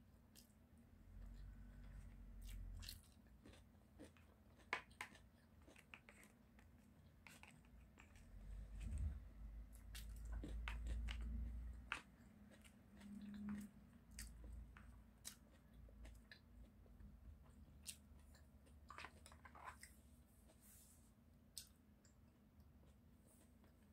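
Close-miked chewing and biting, soft and quiet, with scattered light clicks of wooden chopsticks against a plastic sushi tray.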